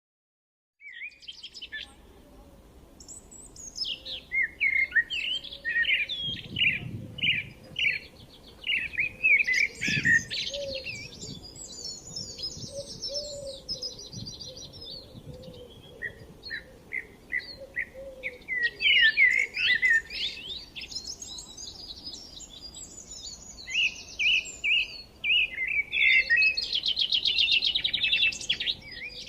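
Birds chirping and singing in quick runs of short high notes and trills, starting about a second in after silence.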